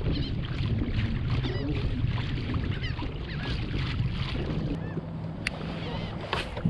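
Wind and water rumbling steadily around a kayak, with birds working the water giving short calls again and again, and a couple of sharp clicks in the second half.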